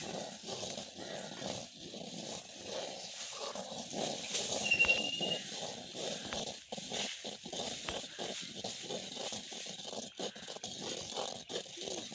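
Thick ragi (finger millet) kali being stirred and worked in a pot, an irregular run of stirring strokes.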